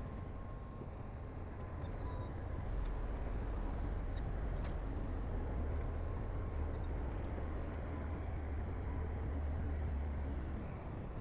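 Diesel engine of heavy earthmoving machinery running steadily, a deep, even rumble.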